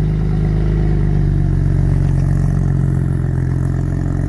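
A car engine running steadily at low revs, a steady low hum with an even pulse.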